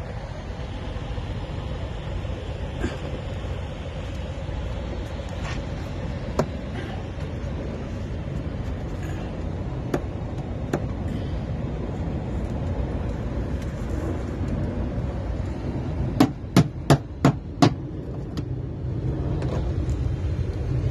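Hands working the plastic door and clips of a truck's HVAC outside-air filter housing: scattered sharp clicks and knocks, then a quick run of five sharp knocks about two-thirds of the way through, over a steady low rumble.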